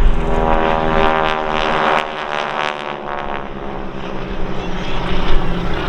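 Biplane's piston engine and propeller flying past, loud in the first couple of seconds and then easing off to a steadier, lower drone.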